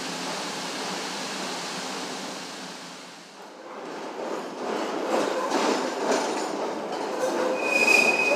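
CTA Pink Line rail car running under power with its AC traction motors back on after a third-rail gap: a steady rushing noise with a low hum. About three seconds in the sound dips, then wheels clatter over rail joints with scattered knocks, and a brief high squeal comes near the end.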